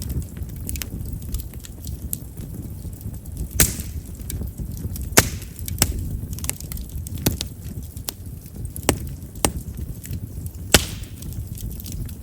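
Chestnut firewood burning in an open fire, crackling with sharp pops at irregular intervals over a low rumble of flame, the loudest pops about three and a half, five and eleven seconds in. Chestnut's large wood vessels make it a wood known for popping as it burns.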